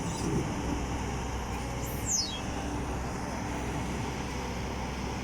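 Heavy diesel earthmoving machinery at a soil pit running steadily, with a low constant engine drone. About two seconds in, a short high chirp falls quickly in pitch.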